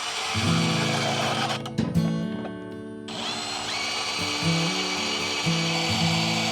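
Background music with a plucked-string line, laid over a power tool cutting through steel fence-brace pipe.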